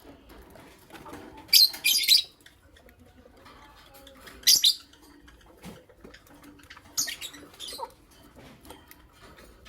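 Lovebirds chirping, high-pitched calls in three short bouts: about a second and a half in, around four and a half seconds, and around seven seconds.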